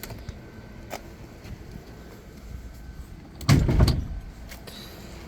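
Car hood being released and opened on a BMW E30: a short latch click about a second in, then a loud clunk and rattle about three and a half seconds in as the hood is unlatched and lifted.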